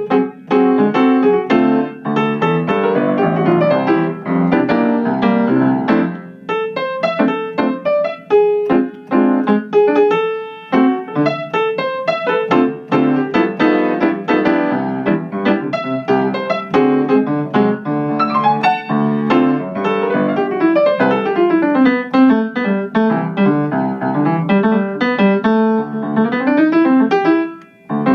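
Piano played fast and busily, with dense runs of notes; in the second half it sweeps in quick rising and falling scales, with a brief break just before the end.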